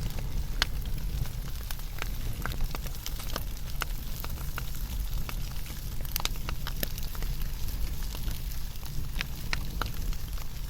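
Fire burning, with irregular sharp crackles and pops over a low, steady rumble.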